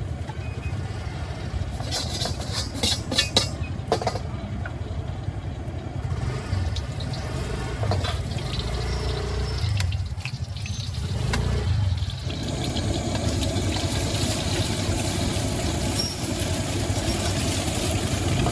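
Wok-stall cooking sounds over a steady low rumble: a few sharp metal clinks about two to four seconds in, then a steady hiss of water from about twelve seconds in.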